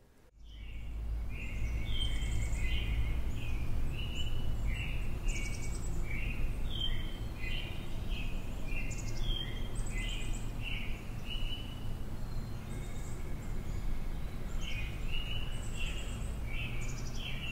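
Songbirds singing outdoors, short repeated chirping phrases throughout, over a steady low rumble.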